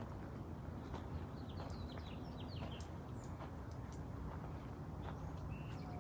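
Small birds chirping: a quick run of short, high, falling chirps about a second and a half in and a few more near the end, over a low steady rumble.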